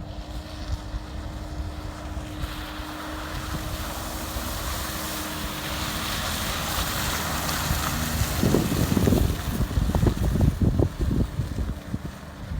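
Ford Ranger 4x4 pickup driving off-road: a steady engine hum under a rising hiss of tyres and wind, then irregular heavy low thumps and rumbling from about eight seconds in.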